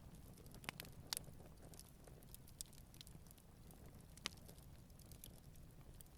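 Campfire burning quietly, the wood giving off sparse, irregular crackles and pops, with a few sharper snaps about a second in and again near four seconds, over a low steady rumble.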